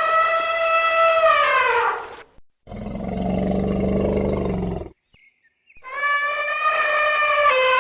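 Elephant calls: two high trumpet blasts of about two seconds each, each dropping in pitch at the end, with a lower, steadier roar between them.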